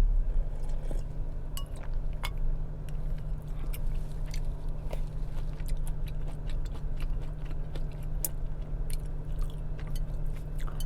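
Close-miked chewing, with many small sharp clicks and crunches scattered throughout, over a steady low hum.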